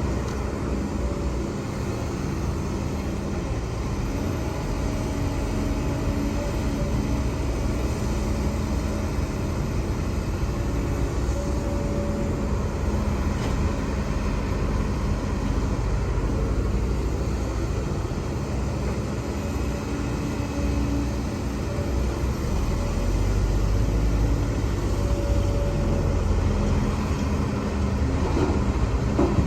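Heavy diesel earthmoving machinery running steadily, a low engine drone with faint higher tones coming and going, growing slightly louder in the last few seconds.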